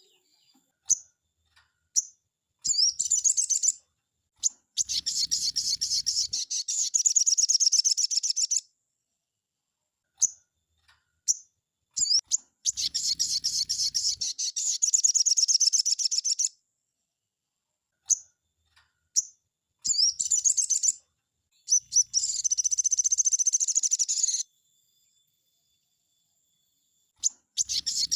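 Sogon bird singing: shrill, rapid trilled bursts lasting a few seconds each, with short single chirps in between.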